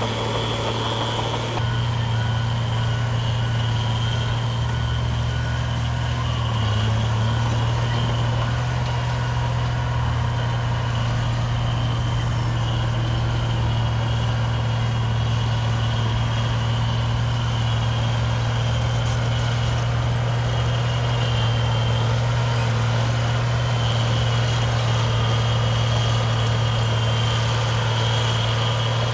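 Heavy diesel engine of earthmoving machinery running steadily with a constant low hum, its note shifting slightly about a second and a half in.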